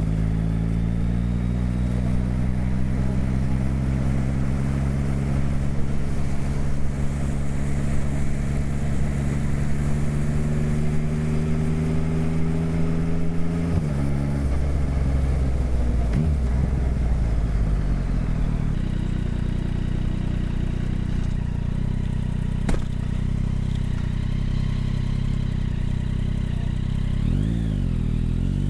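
Motorcycle engine heard from on the bike. It pulls with its pitch rising slowly for about fourteen seconds, then the revs drop suddenly as it comes off the throttle and slows. It then runs at a steady lower speed, with one sharp click a little past the middle.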